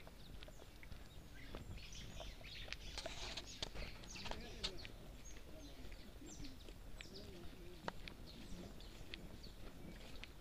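Small birds chirping in the trees: many short, high calls, busiest a couple of seconds in, with scattered light clicks and crackles over a steady low rumble.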